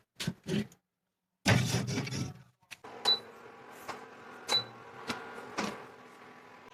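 Metal cookware clinking and clattering: a scatter of sharp clicks, a longer clatter, then two sharp strikes a second and a half apart, each with a brief high ring.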